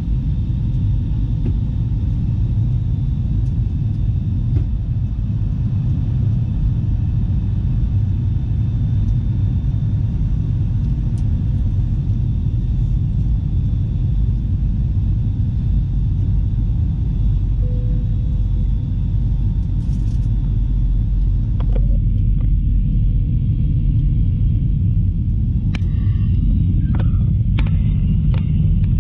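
Airbus A321 cabin noise: a steady low rumble of jet engines and rushing air heard inside the passenger cabin, with faint steady whining tones above it. About three quarters of the way through the higher hiss drops away, and a few short clicks follow near the end.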